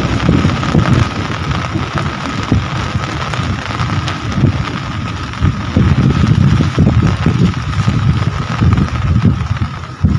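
Rain falling with gusty wind buffeting the microphone: a deep, uneven rumble under a steady hiss. A faint steady high tone runs underneath.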